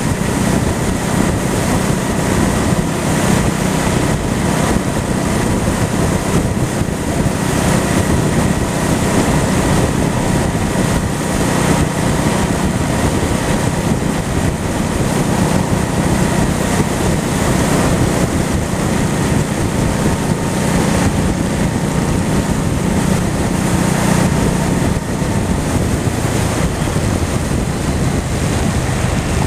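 Honda Shadow V-twin motorcycle engine running steadily while riding, with heavy wind noise over the microphone.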